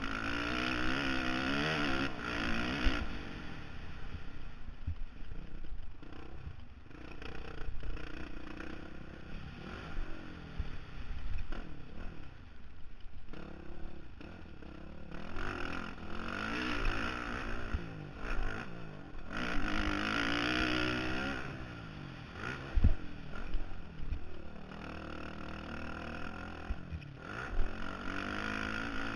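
Honda CRF450R single-cylinder four-stroke motocross engine revving up and falling back over and over as the bike is ridden, heard from a helmet camera with wind rush. A few sharp knocks, loudest one about 23 s in.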